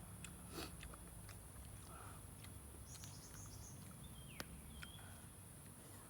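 Faint forest ambience: a steady high insect drone with a few short bird chirps and scattered small ticks, and one sharp click a little over four seconds in.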